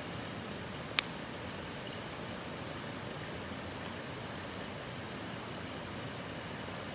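Wood campfire crackling: one sharp pop about a second in and a few faint ticks over a steady hiss.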